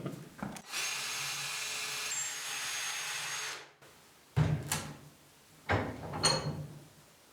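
A small power tool runs steadily for about three seconds and then cuts off abruptly. Two loud knocks or clatters follow a little later.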